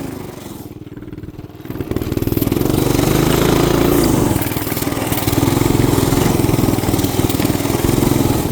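212cc single-cylinder small engine dropping to a low idle, then opened up again about two seconds in and running steadily at higher revs with a fast, even pulse.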